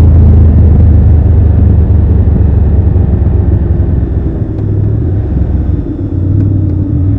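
Triumph Tiger 1200 Rally Pro's three-cylinder engine and exhaust under way, heard from the rider's seat. The deep engine note is loud at first and eases off over the first few seconds, then runs steadier and quieter.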